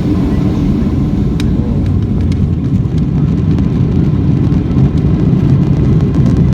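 Airliner's jet engines at takeoff power and the cabin's steady low rumble, heard from inside the passenger cabin during takeoff, with a few faint rattles.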